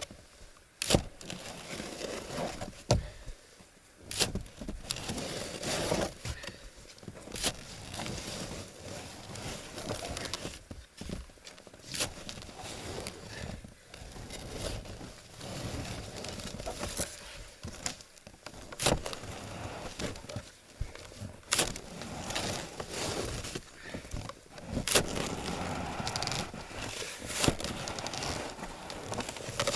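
Snow being cut and shoveled off a cabin roof: irregular crunching and scraping of packed snow, with a sharp knock of the shovel every few seconds.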